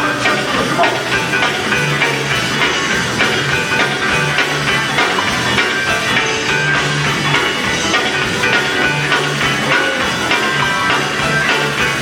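Live gospel band music with drums and a bass line moving through short repeated notes.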